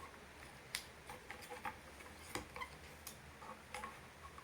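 Irregular small clicks and taps of toy airplane kit parts being handled and fitted together by hand.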